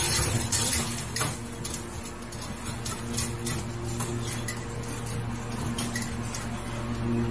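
Irregular light clinks and taps of a metal bowl and wire cage bars as a cat paws at them, over a steady low hum.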